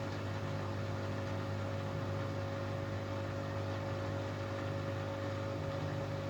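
Hoover Axi 9kg washing machine running steadily: a low motor hum with a steady higher tone over it.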